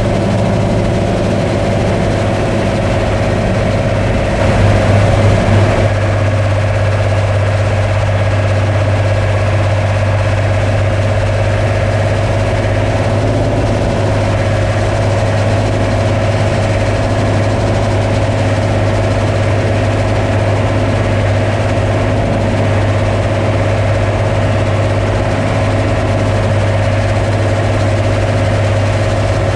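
Combine harvester running steadily: a constant low engine hum with a steady higher whine from the machinery, briefly louder for a second or two about four seconds in.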